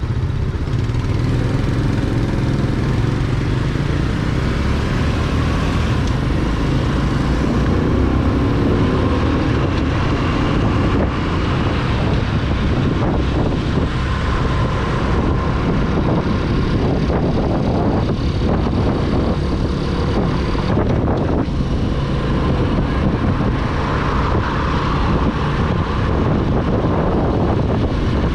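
Corven 110 Energy motorcycle's small single-cylinder four-stroke engine running steadily while riding, mixed with wind and road noise on the microphone.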